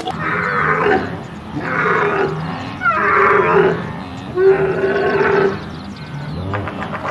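An animal calling four times in a row, each call about a second long and loud, followed by a few quieter calls near the end.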